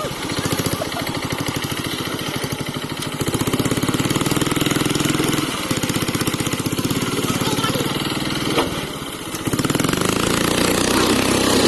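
Eicher tractor's diesel engine running with a steady throb, dipping briefly about nine seconds in and then picking up louder again.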